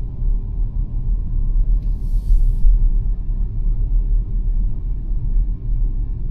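Steady low rumble of tyre and road noise inside the XPENG G9 electric SUV while driving, with no engine note. A brief hiss comes in about two seconds in.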